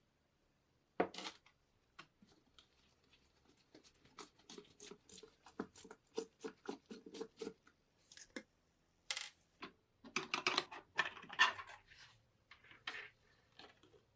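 Small hard parts being handled and worked by hand: a sharp knock about a second in, a run of rhythmic scraping strokes, then a burst of clattering and scratching.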